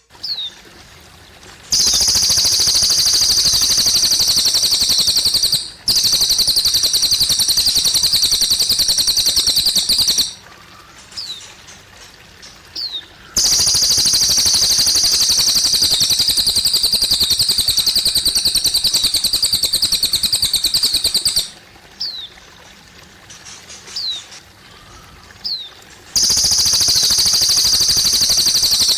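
Cililin bird singing: long, loud, very rapid high trills of about four to eight seconds each, four of them, with single short high chirps in the pauses between, over trickling water.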